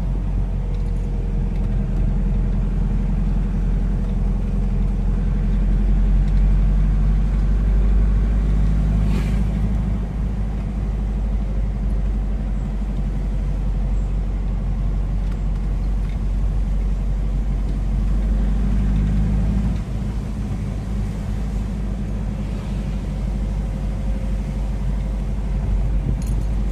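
Motor vehicle running on the road: a steady low rumble of engine and road noise, its pitch shifting a little as it goes.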